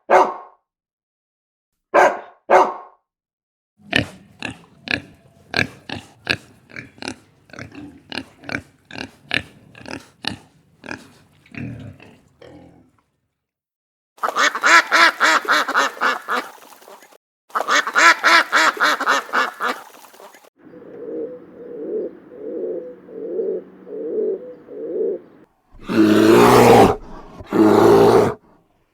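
Calls from several different animals, one after another: a couple of short calls, then a long run of quick repeated calls, then longer noisy calls and a softer rhythmic call, with short silent gaps between them.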